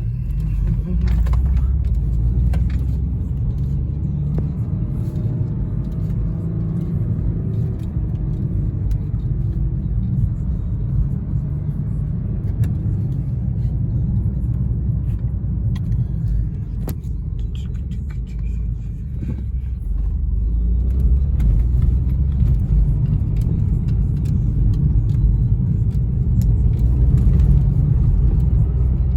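Car driving along: a steady low rumble of engine and road noise, growing somewhat louder about two-thirds of the way through.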